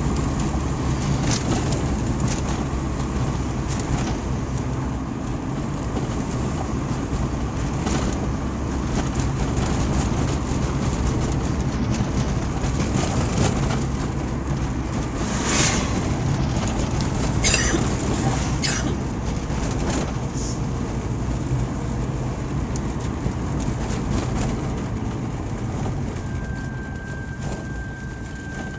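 Steady low rumble of a vehicle in motion, engine and road noise together, with a few brief hissing sounds about halfway through and a thin steady tone starting near the end.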